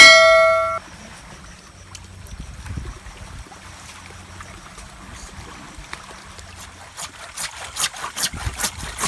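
A short, loud ringing tone that cuts off abruptly, then water trickling at a low level. About seven seconds in, an irregular run of sharp clicks or knocks begins.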